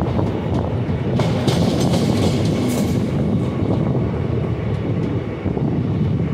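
Rumble and clatter of steel train wheels running on rails as a passenger train passes close alongside on the next track, with a few sharp rail-joint clicks in the first few seconds.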